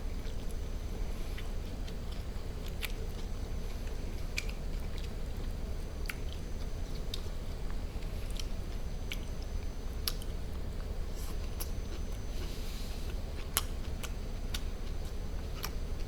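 Close-miked chewing of grilled duck meat, with scattered sharp wet mouth clicks and smacks over a steady low hum.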